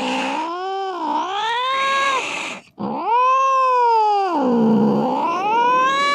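Cat yowling: two long, drawn-out calls with a brief break between them, each wavering in pitch, dipping low and then rising again.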